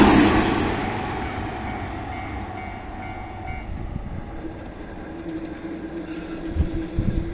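Keihan electric train passing over a level crossing, its rumble loudest at first and fading steadily as it moves away. In the last couple of seconds a faint steady tone comes in, with a few low thumps.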